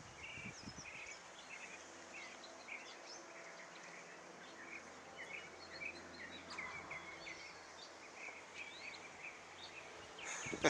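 Songbirds chirping: many short, high chirps following each other quickly, faint.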